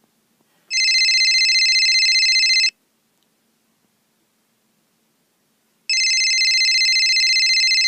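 Electronic telephone ring: two long, high, warbling rings of about two seconds each, some three seconds apart.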